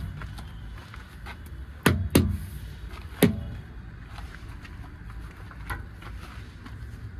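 Vehicle engine running with a steady low rumble, broken by two sharp knocks about two seconds in and another about a second later.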